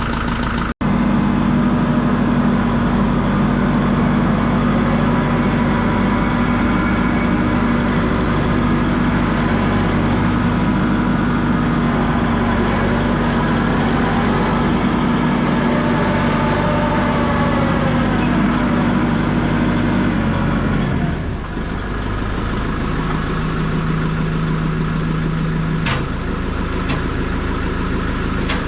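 Vehicle engine running steadily with road and mechanical noise. There is a momentary dropout just under a second in, and the engine note drops and changes about two-thirds of the way through.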